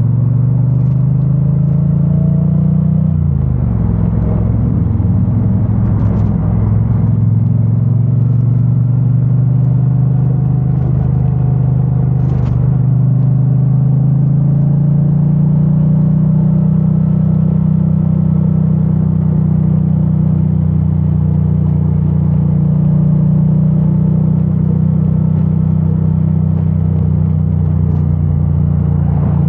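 2022 Triumph Bonneville T100's 900cc parallel-twin engine running through its stock exhaust while riding. The engine note drops a few seconds in, then rises again and holds a steady cruising pitch through the second half.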